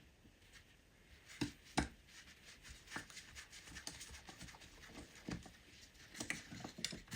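A run of light clicks and taps from small carburettor parts and jets being handled and fitted, with two sharper clicks early on.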